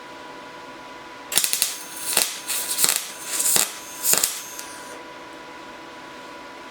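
MIG welder arc crackling in three short runs, about a second in to about four and a half seconds in, as beads are laid on a cast-iron part. A faint steady hum sits underneath.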